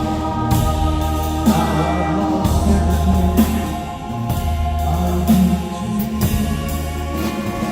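Live rock band playing: long held keyboard chords over sustained bass notes, with drums and cymbal crashes.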